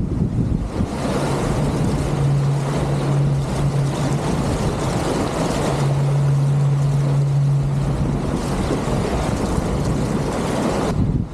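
Wind and water rushing past a sailing catamaran at high speed, with a steady low hum that comes in about two seconds in, fades briefly, then returns and dies away about eight seconds in.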